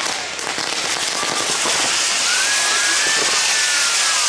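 Fireworks crackling densely and without a break, with a thin whistle that rises and then slowly falls through the second half.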